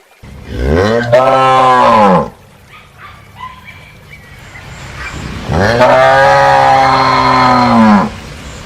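A cow mooing twice: two long, loud calls, each rising and then falling in pitch. The first comes about a second in, and the second starts about halfway through.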